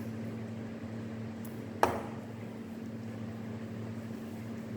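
Steady low electrical hum of room tone, with a single sharp click about two seconds in.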